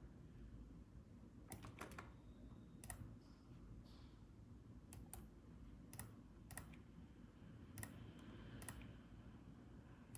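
Faint, scattered clicks at a computer, about ten of them and some in quick pairs, over a low room hum.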